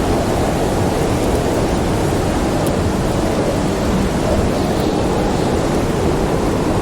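Storm wind howling: a steady deep rushing with faint gliding whistles. A few faint crackles from a wood fire sound over it.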